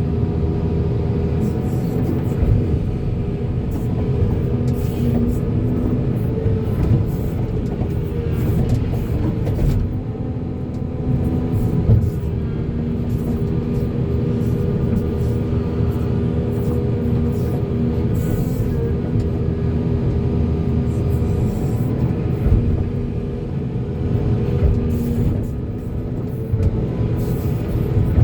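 Volvo excavator's diesel engine running steadily under load, with scattered knocks through it.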